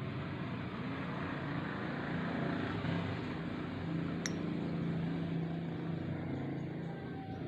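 Steady low engine hum of a passing motor vehicle, swelling through the middle, with one short high chirp about four seconds in.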